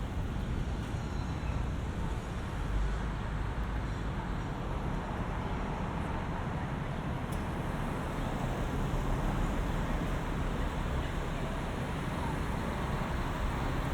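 Steady road traffic noise: a continuous low rumble of passing motor vehicles.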